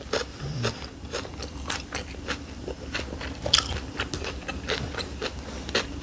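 Close-up chewing of a shrimp summer roll (rice paper wrapped around shrimp, vermicelli noodles, lettuce and cucumber): a run of short, irregular wet clicks and smacks from the mouth.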